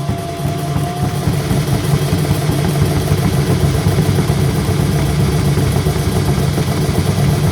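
Loud, steady din of a ballpark crowd, with a dense rapid clatter running through it; a single held note fades out about a second in.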